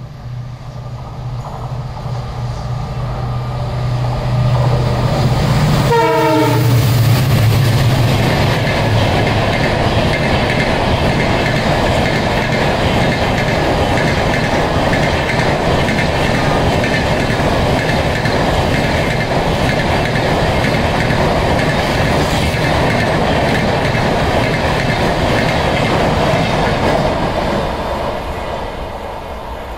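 EMD diesel locomotive of Indian Railways running at speed: a deep engine rumble and the horn on the approach, with the horn's pitch dropping sharply as the locomotive passes about six seconds in. Then comes a long steady rush and clatter of the LHB coaches going by, fading away near the end.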